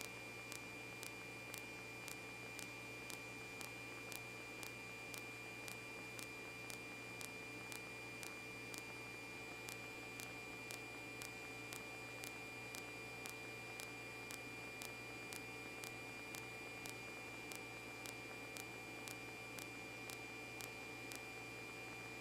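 Steady electrical hum and hiss with a faint high whine and faint ticks about twice a second: the background noise of a police radio recording between transmissions.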